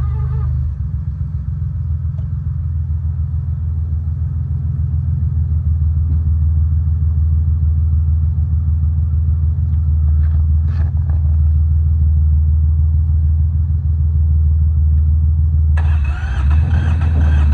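Small Yanmar YM146 tractor diesel engine running steadily with a rapid low chugging, getting a little louder over the first few seconds. Music comes in near the end.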